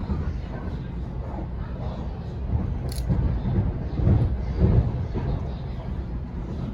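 Onboard a Sydney Trains Waratah electric train on the move: a steady low rumble of wheels on track. There is a sharp click about three seconds in, and louder low knocks a second or two later.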